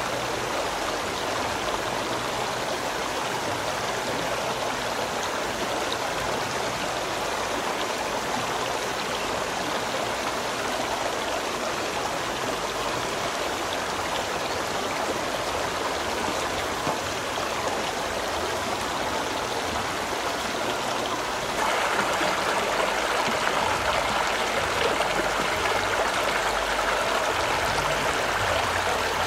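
Steady rushing water, such as a stream running over rocks, that suddenly becomes louder and brighter about two-thirds of the way through.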